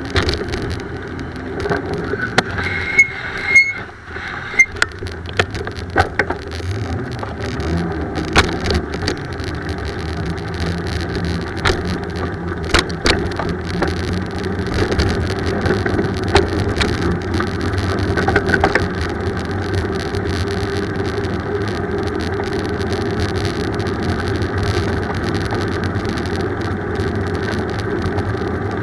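Steady rumble and wind noise of a bicycle being ridden along a road, with many sharp clicks and knocks in the first half and a brief high squeal about three seconds in.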